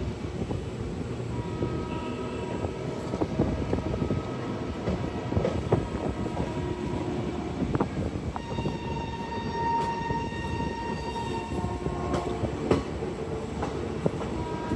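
Passenger train running, a steady rattling noise with clicks from the wheels and cars. A long high-pitched tone with several pitches is held from about eight and a half to twelve seconds in.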